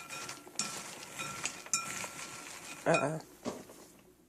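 A stirring utensil clinking and scraping against a ceramic bowl of buttered puffed corn cereal, with a string of uneven strikes that each leave a short ring. A brief voiced sound comes about three seconds in.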